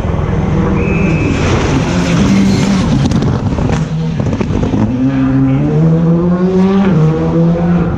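Rally car engine accelerating hard, its pitch climbing and then dropping at each gear change, several times over the last few seconds. A brief high squeal comes about a second in.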